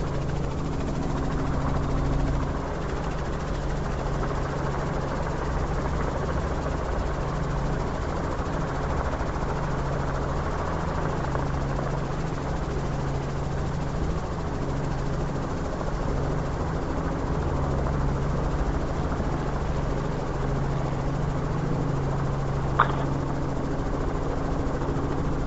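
Robinson R44 helicopter in flight, its six-cylinder piston engine and rotors making a steady hum as heard from inside the cabin, with one short click near the end.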